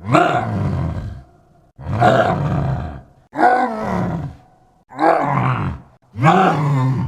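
Wolfman monster sound effect: five loud roars in a row, each about a second long and falling in pitch, separated by short gaps.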